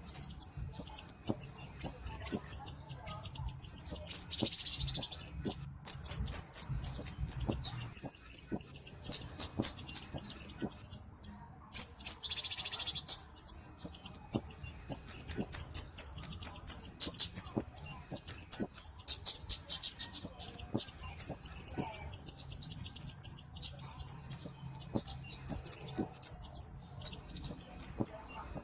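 Flowerpecker (kemade, cabe-cabean) song: long runs of rapid, thin, high-pitched chirps with short pauses between them. Twice a brief hissing buzz breaks in, once about four seconds in and again around the middle.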